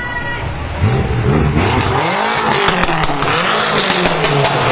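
BMW M5 F10's twin-turbo V8 with catless downpipes revving hard, its pitch rising and falling several times. Sharp exhaust crackles pop through the second half.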